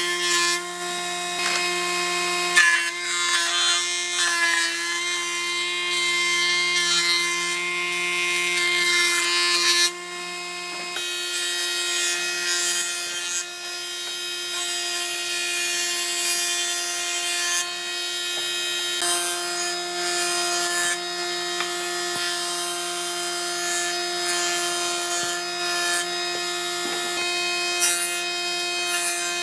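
A power tool running with a steady motor whine while working wood, giving a gritty rubbing, abrading sound that shifts in texture a few times and dips briefly about ten seconds in.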